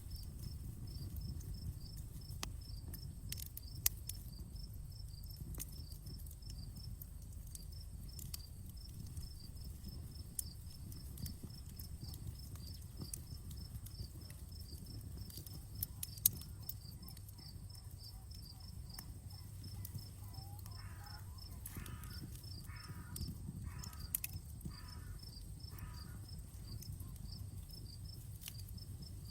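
Outdoor campfire crackling, with sharp pops scattered through and a low steady rumble. Crickets chirp steadily and fast in the background. Past the middle there is a short run of about six repeated calls.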